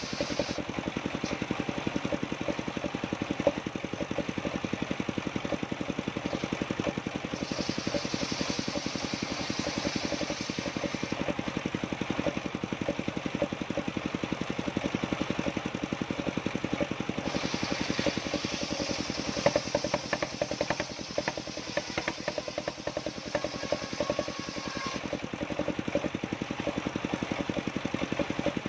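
An engine running steadily, with an even, rapid pulse throughout.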